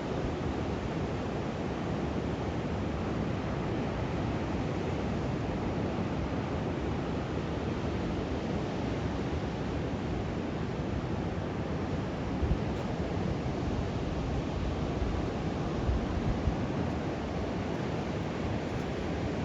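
Steady noise of ocean surf on a beach, mixed with wind on the microphone, with a few brief louder gusts about twelve and sixteen seconds in.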